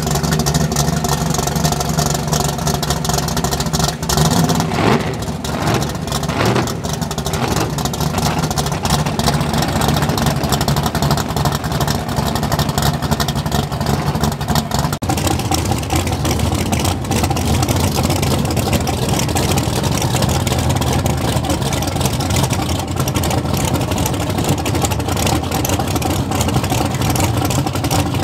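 Loud race car engines running at idle, with a few quick revs about five seconds in; the engine note changes about fifteen seconds in.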